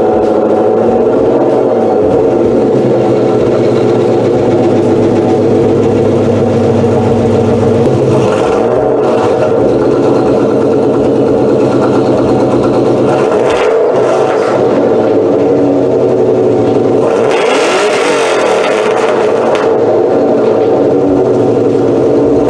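V8 Mustang running through long-tube headers, a Bassani off-road X-pipe and Magnaflow mufflers, idling steadily and revved briefly three times, about eight, thirteen and seventeen seconds in. The last rev is the loudest and harshest.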